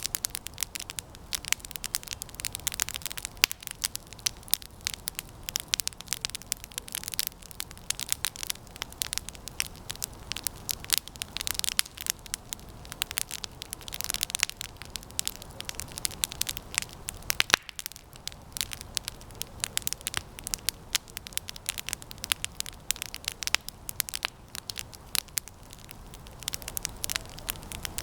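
Campfire of resinous pine branches burning, with dense, irregular crackling and sharp pops.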